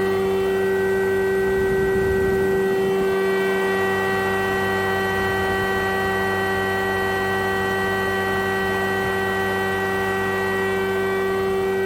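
Jaroma DSMB 63 thickness planer running, its four-knife cutterhead and 5.5 kW motor giving a steady whine with several overtones. A rougher low rumble joins in briefly about two seconds in.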